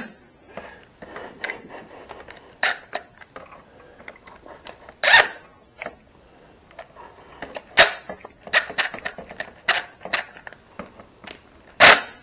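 Irregular clicks and knocks of hand tools and metal parts being handled while brackets are fitted to an engine, with a few louder clanks spread through.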